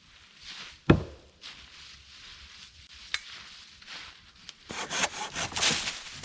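Wood being worked by hand: a single sharp knock on wood about a second in, then a run of quick rasping saw strokes through wood over the last second and a half.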